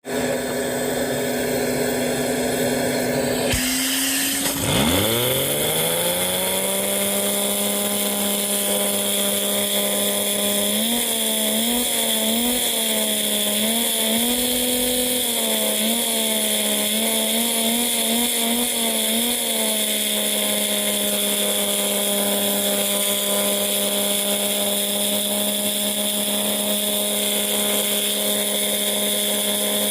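Lego vacuum engine running fast, giving a steady high-pitched buzz made to sound like a nitro engine. About four seconds in it slows almost to a stop and spins back up within about a second and a half. Between about 11 and 19 seconds the pitch blips up and down over and over like quick revs, then it settles to a steady run.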